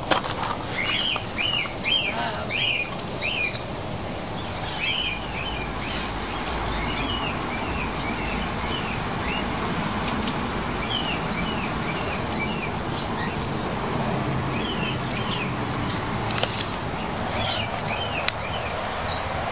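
Birds chirping in short repeated calls over steady background noise. The calls come thickest in the first few seconds, thin out, and pick up again near the end.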